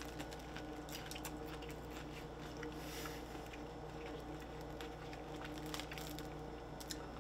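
A person chewing a mouthful of blackened mahi sandwich with soft bun and lettuce, faint small wet clicks of the chewing, over a steady low hum.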